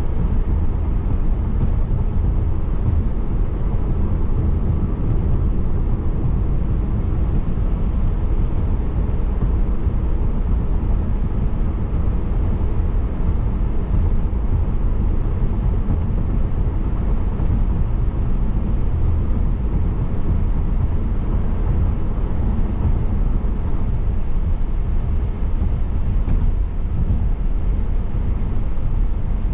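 Steady road noise of a car driving: a constant low rumble from the tyres and engine with a hiss above it, even throughout.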